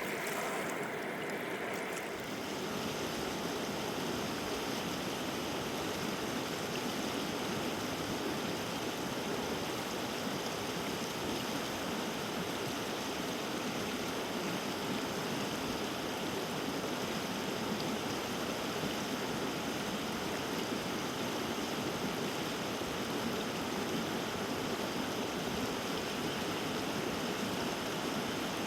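Steady rush of flowing river water, an even hiss without a break.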